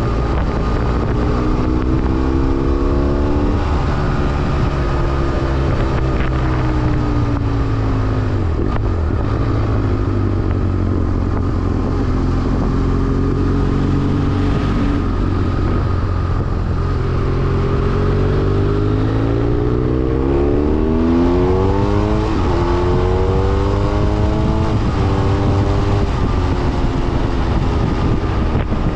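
BMW F800R motorcycle's parallel-twin engine on the move, its pitch climbing under acceleration and dropping back at each gear change. It accelerates through the gears near the start and again, through several quick upshifts, over the last third, with a steadier stretch of cruising in between.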